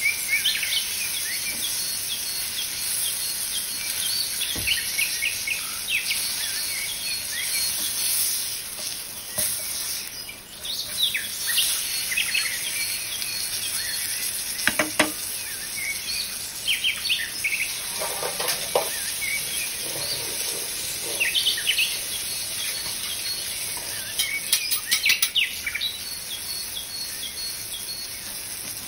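Chicken breast frying in butter in a non-stick pan, a steady sizzle, with a plastic spatula now and then scraping and tapping the pan. Short bird chirps come repeatedly over it, from an added bird-chirping sound track.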